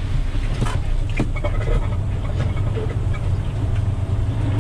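Log truck's diesel engine running with a steady low rumble as the truck rolls over a rough road, with scattered knocks and rattles from the jolting.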